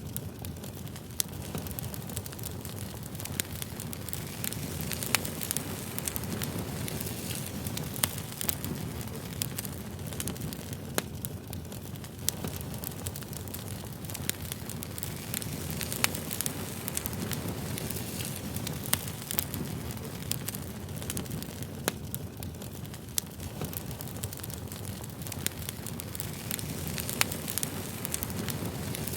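Campfire crackling: a steady low rush of burning wood with sharp pops and snaps at irregular intervals.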